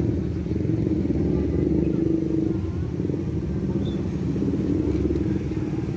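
Road traffic: motorcycles and cars running past in a steady low rumble.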